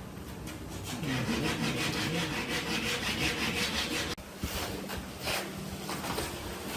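Wood being sawn by hand with quick, even strokes. The sound breaks off abruptly about four seconds in and gives way to a quieter rubbing.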